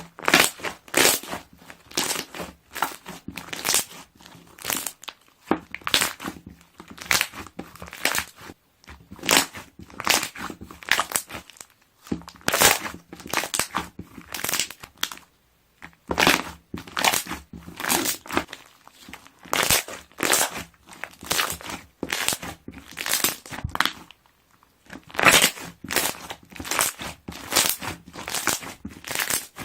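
Slime being pressed and squeezed, its trapped air bubbles popping in quick runs of sharp pops, several a second, with brief pauses every few seconds.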